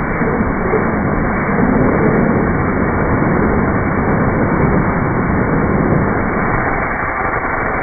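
Pressure washer running steadily, a continuous loud rushing hiss of water spray with no breaks.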